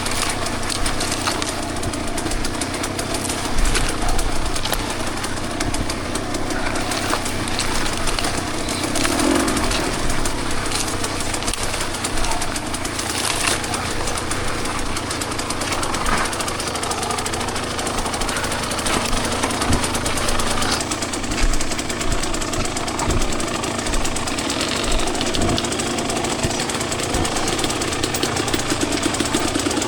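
Two-stroke dirt bike engine running on a trail ride, its throttle rising and falling, with scattered knocks from the bike over rough ground.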